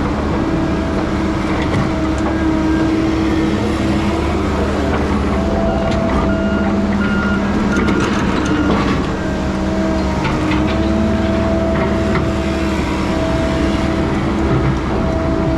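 Heavy diesel logging machinery running steadily, with a higher tone that comes and goes every second or two.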